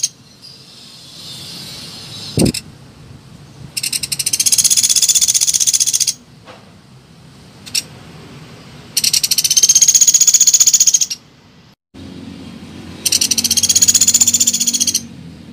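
Woodpecker (pelatuk beras) giving a high, rapid rattling call of about two seconds, three times a few seconds apart. A single knock sounds about two and a half seconds in.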